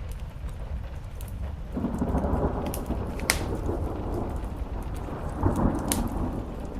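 Thunder rumbling, swelling about two seconds in and again near the end, over steady rain and the sharp pops of a crackling wood fire.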